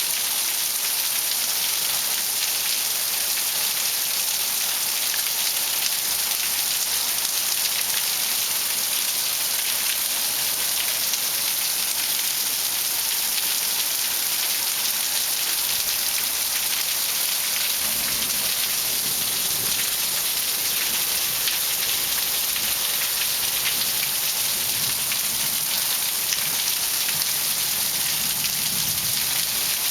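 Steady heavy rain falling and pattering on hard surfaces, a dense even hiss of many drops.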